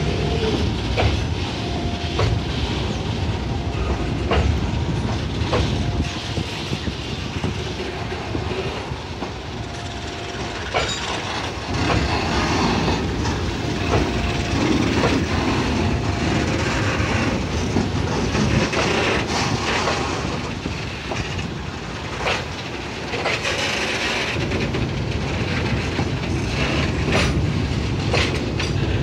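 A rake of covered clinker hopper wagons rolling slowly past during shunting: a steady rumble of wheels on rail, broken by sharp clacks every second or two as the wheels cross rail joints.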